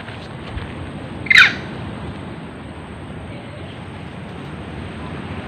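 A single short, sharp animal call, falling steeply in pitch, about a second in, over a steady background hiss.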